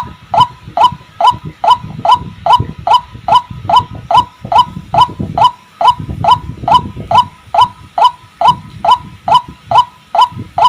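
White-breasted waterhen (ruak-ruak) calling: a monotonous series of short notes, repeated evenly about two and a half times a second, over a low rumble.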